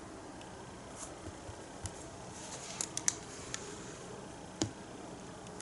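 Faint, scattered small taps and clicks of a paintbrush working against the palette and painting surface, over a quiet room hiss.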